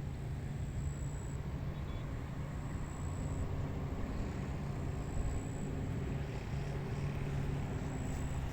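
Steady outdoor wind rumble with a faint, even drone from a distant engine underneath.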